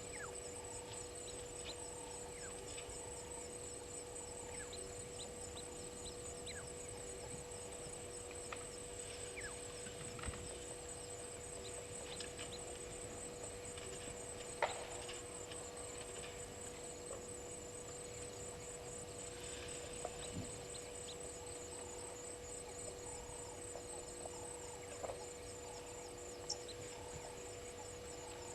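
Bushveld waterhole ambience: a high, fast-pulsing insect trill and a constant low hum run throughout. Over them come scattered short bird chirps and a soft low call repeating about every second and a half.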